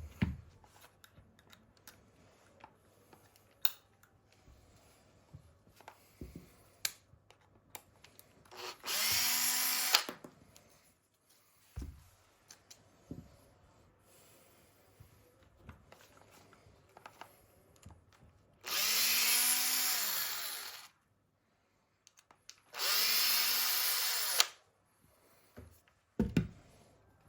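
Small power drill running in three short bursts of a second or two, each spinning up and winding down, the kind of run used to back screws out of parts. Light clicks and knocks of small parts being handled come between the bursts.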